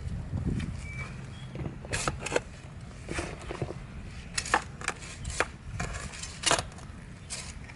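Steel spade digging into packed soil: irregular crunchy stabs and scrapes, about nine of them, one every half second to a second.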